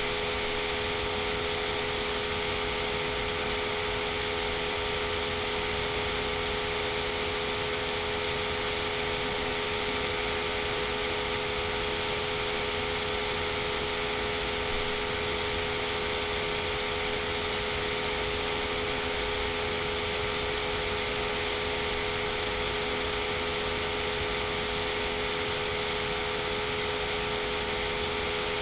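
Steady whirring hiss with a constant low hum, typical of a computer's cooling fan running while a simulation processes.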